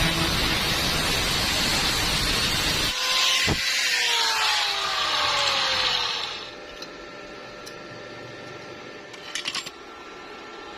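Power tool running with a harsh hissing noise and a steady whine. About halfway through, the whine starts to fall in pitch, and the tool stops about six seconds in. A few light clicks follow.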